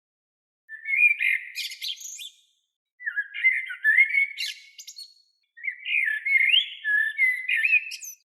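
A small songbird singing three separate phrases, each about two seconds long, of rapid chirps and rising whistles.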